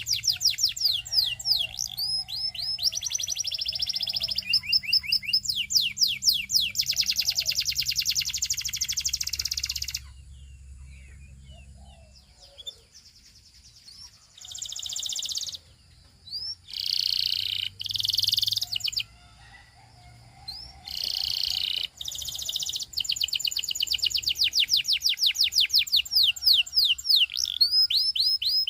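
Canary singing in long, fast trills of rapidly repeated high notes. About ten seconds in it breaks off briefly, goes on in short separate phrases, and returns to fast trills for the last several seconds.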